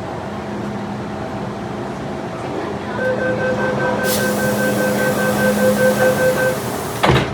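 MTR M-train door-closing warning: rapid two-tone beeping for about three and a half seconds over a hiss, then the doors slam shut hard near the end.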